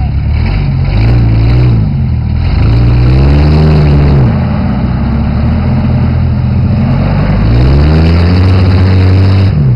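SUV engine revving hard in repeated surges, its pitch climbing and falling three times, as the vehicles work in the mud.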